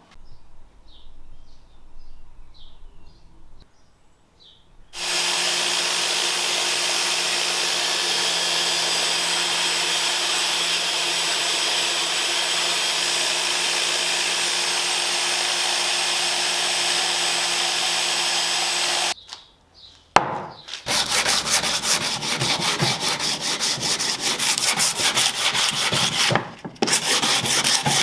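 Wood being machined by a power tool, most likely on the new oak handle. The motor runs steadily with a constant hum for about fourteen seconds, then stops. After a short pause, fast rhythmic rasping strokes on the wood follow.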